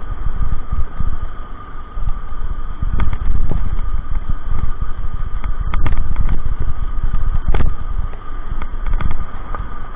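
Riding noise: a heavy, fluctuating low rumble like wind buffeting the microphone, over a steady hum, with a few sharp knocks or rattles about three, six and seven and a half seconds in.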